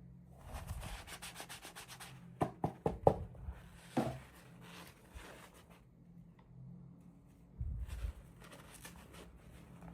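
Hands unboxing small toys: packaging rubbing and scraping with quick ticking, then a few light knocks and a dull thump as pieces are handled. A faint steady hum lies underneath.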